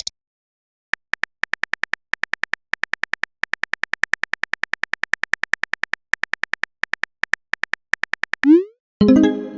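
Rapid run of short, same-pitched electronic beeps, several a second, like a chat app's typing sound effect. Near the end a quick rising swoop, then a bright chime-like tone that rings and fades, like a message notification.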